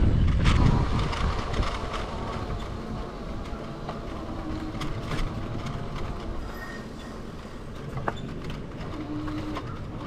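Electric bike rolling along a bumpy trail: steady rolling and rattling noise with scattered clicks and knocks, heaviest in the first second or so.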